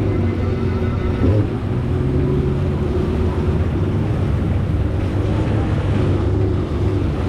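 Jet ski engine running steadily under way, its pitch wavering slightly, with wind buffeting the microphone.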